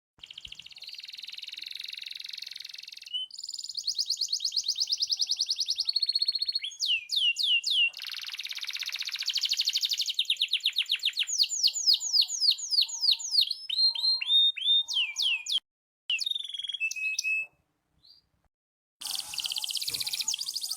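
Canary singing a long rolling song of fast buzzy trills and rapid runs of repeated sweeping notes. The song breaks off briefly about three-quarters through, then resumes near the end.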